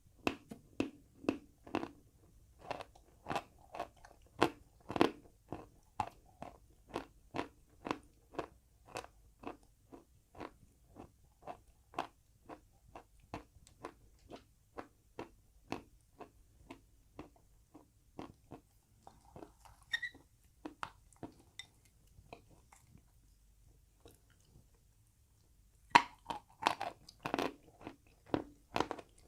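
Close-up crunching of chalk being chewed: steady bites about two a second that grow fainter, then a pause, then a new run of louder crunches near the end.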